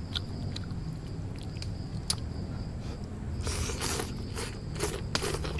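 A person chewing and biting crunchy food close to the microphone, with scattered small clicks and louder bursts of crunching about three and a half seconds in and again near the end. A thin steady high tone runs underneath.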